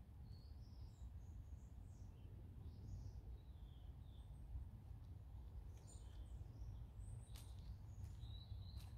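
Small birds chirping faintly and sporadically over a steady low rumble of outdoor background noise, with a couple of faint clicks near the end.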